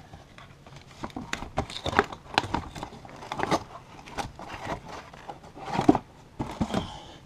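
Packaging being handled while a boxed battery kit is unpacked: irregular rustling, crinkling and light knocks of cardboard, with the loudest rustle a little before six seconds in.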